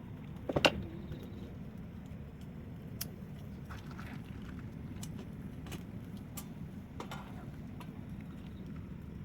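Wood bonfire crackling, with scattered sharp pops over a steady low rumble; the loudest is a quick cluster of pops about half a second in.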